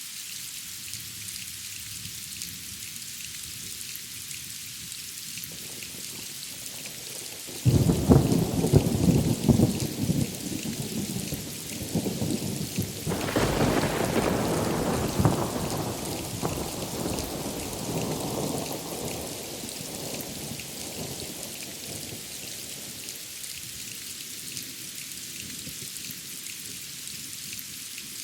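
Steady rain hissing throughout. A thunderclap breaks in suddenly about a quarter of the way through, surges again about halfway, then rumbles and dies away over several seconds, leaving the rain on its own.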